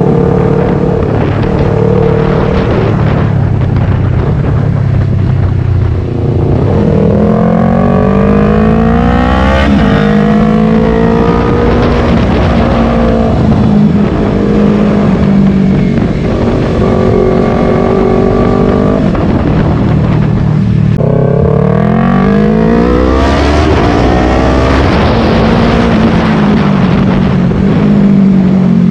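Yamaha R3's parallel-twin engine heard onboard while riding, its revs rising and falling through the gears. The revs climb hard twice, about a quarter of the way in and again about three quarters through, over steady wind rush.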